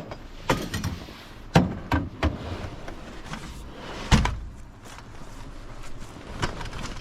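Several separate knocks and clunks of discarded items, such as umbrellas, being picked up and handled. The heaviest, deepest thud comes about four seconds in.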